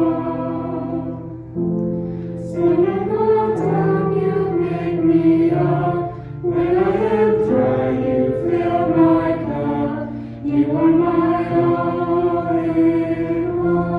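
Music: a choir singing in phrases of long held notes over steady sustained accompaniment.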